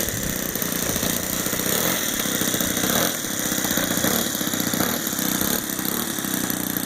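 Saito 125A four-stroke glow engine in an R/C P-51 model airplane, running steadily at low throttle while the model taxis.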